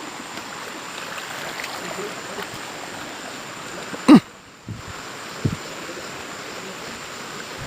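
Steady rushing of a flowing river or stream. About four seconds in, a brief loud voice cuts across it.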